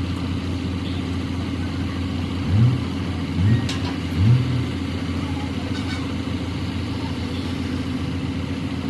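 Hino truck's diesel engine idling steadily, with the throttle blipped three times in quick succession a few seconds in.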